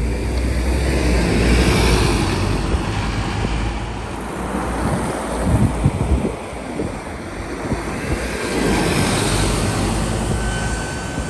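Scania OmniLink city buses driving past, engine hum and tyre noise swelling and fading as each one goes by.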